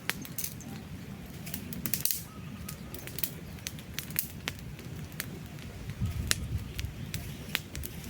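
Wood campfire crackling, with frequent sharp pops and snaps scattered irregularly over a low, steady rumble of the burning fire.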